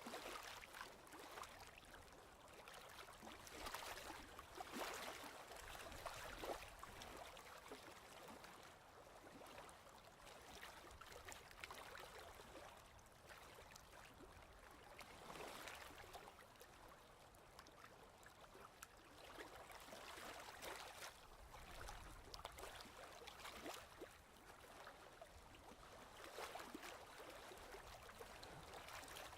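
Faint ocean waves washing in and out, swelling and easing every few seconds with a fizzing hiss.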